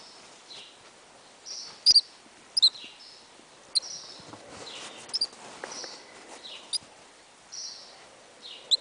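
Featherless nestling bird chirping: a string of short, high chirps at irregular intervals, some in quick pairs.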